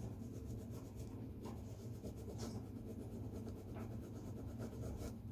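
Drawing strokes scratching on paper, many short strokes in a row, over a steady low hum.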